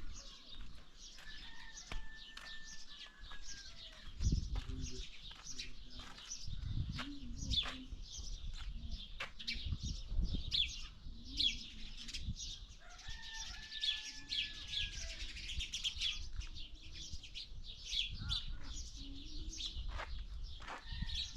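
Many small birds chirping and twittering, with a few longer whistled notes and occasional low rumbles.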